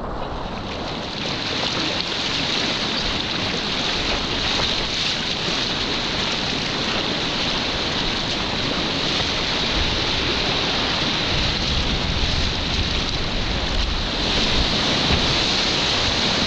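Steady rush of river whitewater, with wind buffeting the microphone.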